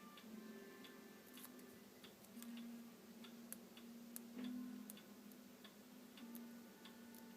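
Near silence: faint, scattered light ticks and clicks of paper card pieces being handled and pressed into place, over a faint low hum that comes and goes.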